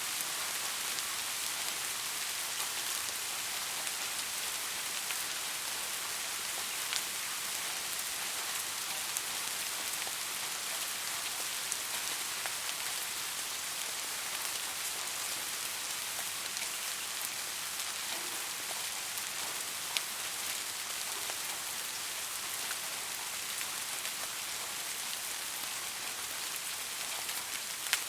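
Steady rain falling, an even hiss with scattered sharper drops ticking on a hard surface now and then.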